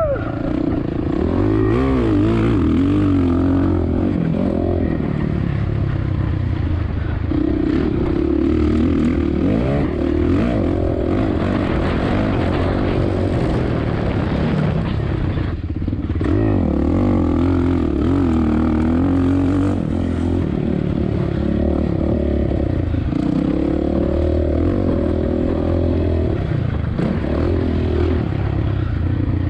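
Four-stroke single-cylinder engine of a 2007 Suzuki RM-Z450 motocross bike revving hard and backing off again and again as it is ridden around the track, its pitch climbing and dropping through the gears.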